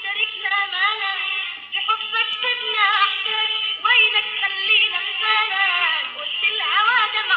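A woman singing an old Lebanese Arabic song over instrumental accompaniment, her melody bending and ornamented.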